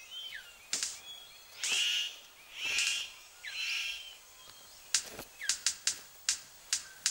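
Male superb bird of paradise displaying to a female: three harsh, rasping calls about a second apart, then a quick run of sharp clicks. Thin whistled bird notes sound in the background.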